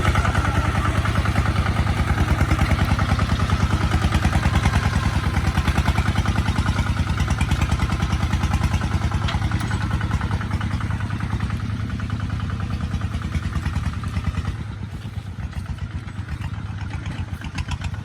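Kubota ZT155 single-cylinder diesel engine running steadily on a ploughing tractor, a quick even train of firing pulses that grows quieter about fourteen seconds in.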